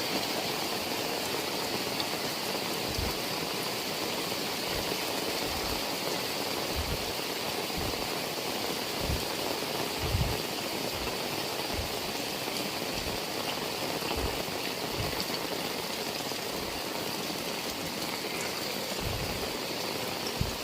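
Heavy rain falling steadily, with irregular soft low thumps every second or so.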